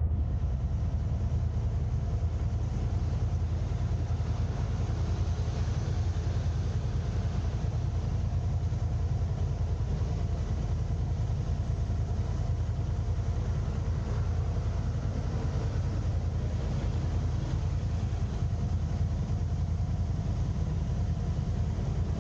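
Car driving, with a steady low rumble of engine and road noise that stays even throughout.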